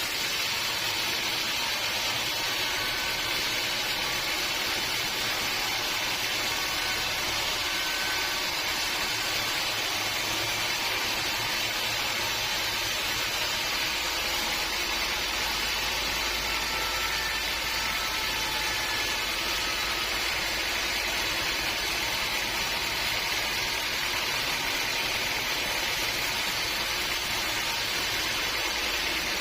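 Sawmill machinery running steadily, an even, unbroken machine noise with no knocks or pauses.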